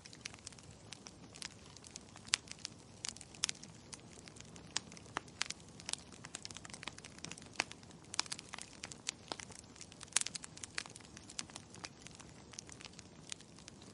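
Wood fire crackling: frequent sharp, irregular pops and snaps from burning logs over a faint low hiss.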